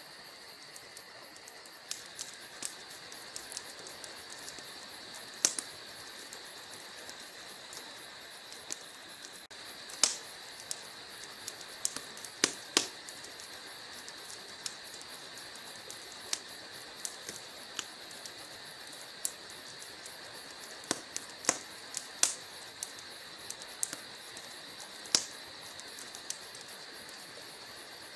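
Wood fire in a fireplace crackling: burning logs give off irregular sharp pops and snaps, a few louder than the rest, over a steady high hiss.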